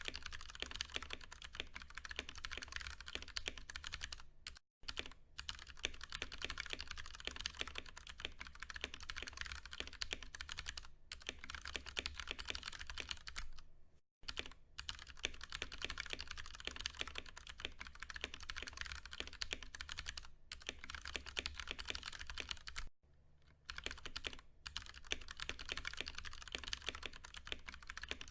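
Continuous typing on a Ducky One 2 Mini mechanical keyboard with Cherry MX Brown tactile switches: a dense, rapid stream of keystrokes, broken by brief pauses three times.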